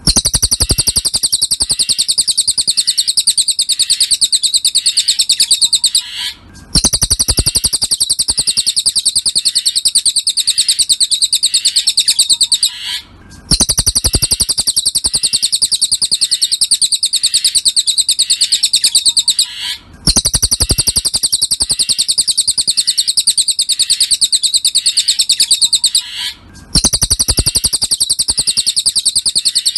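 Cililin birdsong from a looped masteran (songbird tutor) recording: a very fast, high-pitched trill of rapid repeated notes. It runs in phrases of about six seconds, each cut by a brief pause, four times.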